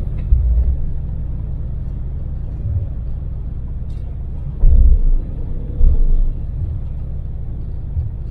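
Daewoo Damas microvan's small three-cylinder LPG engine and road noise, a steady low rumble heard from inside the cab while cruising. Several short, heavy low thumps break in, the loudest around the middle.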